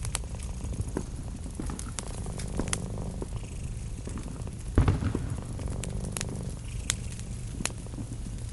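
Cat purring steadily over a wood fire crackling and popping, with one louder thump about halfway through.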